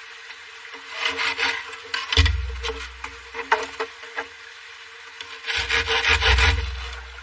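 Wood being worked by hand: three bouts of rapid rasping strokes, like sawing or scraping wood, two of them starting with a deep thud.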